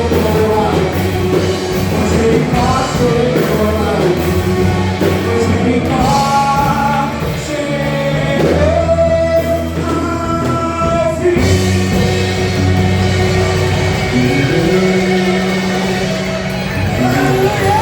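Worship band playing a rock-style song with a voice singing the melody over steady bass notes.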